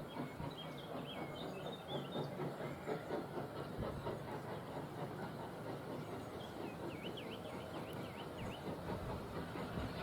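A train rolling along the rails, a steady rumble with irregular clatter from the wheels and carriages.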